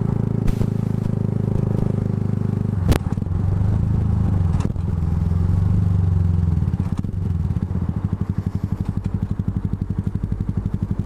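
Yamaha YZF R125's single-cylinder four-stroke engine idling through its Scorpion aftermarket exhaust, with a sharp click about three seconds in. In the last few seconds the idle settles into an even pulsing beat.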